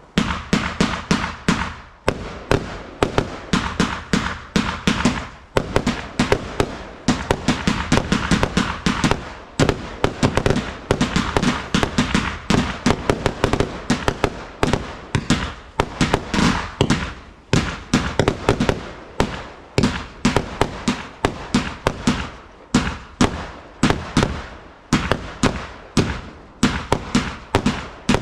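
Fireworks going off in a rapid, unbroken string of sharp bangs, several a second, typical of a multi-shot barrage firing.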